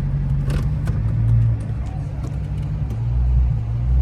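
Low, steady rumble of a car whose pitch shifts a little now and then, with a few faint clicks.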